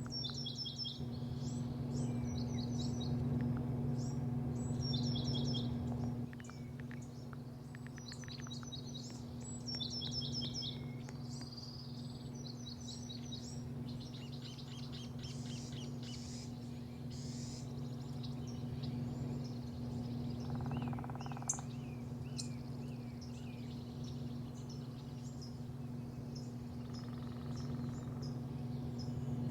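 Small birds chirping in quick repeated series, frequent in the first half and sparser later, over a steady low machine hum that drops a little about six seconds in.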